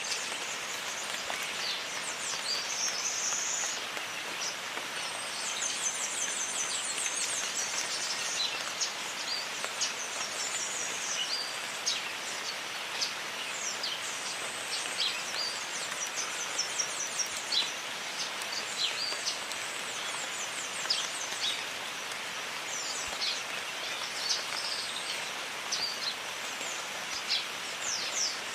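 Steady rain falling in a jungle, with birds giving short high chirps and calls throughout, including a quick high trill about six seconds in.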